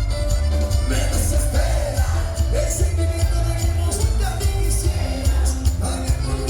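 Live band music with a heavy pulsing bass beat and percussion, with a voice singing over it.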